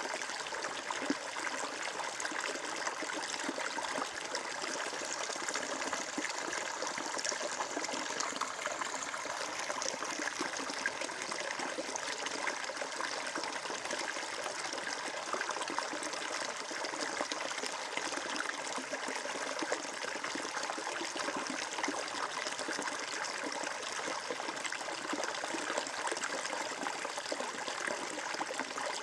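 Water flowing and trickling in a steady stream, an even splashing rush with no change.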